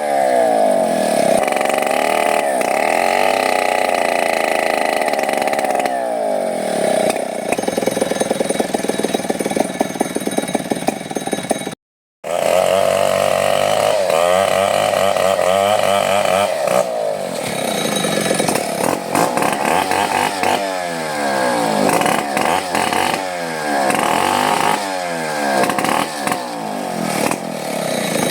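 Two-stroke chainsaw running at high revs while cutting wood, its pitch sagging and climbing back again and again as the chain bites and frees. The sound cuts out for a split second near the middle.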